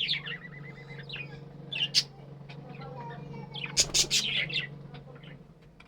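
Budgerigars chirping in short, sharp bursts, loudest about two seconds in and again around four seconds, then quieter near the end, over a steady low hum.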